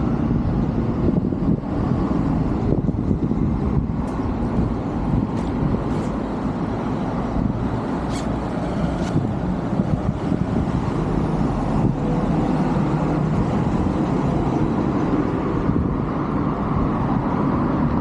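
Steady rumble of road traffic passing by, without let-up, with a couple of faint ticks about halfway through.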